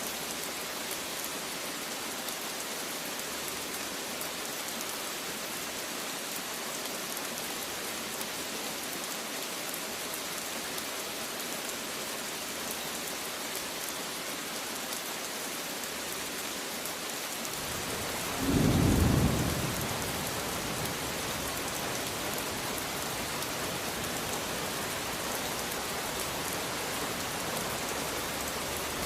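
Steady rain hissing. About two-thirds of the way through, a loud clap of thunder rolls in, followed by a continuing low rumble under the rain, and a second thunder clap starts right at the end.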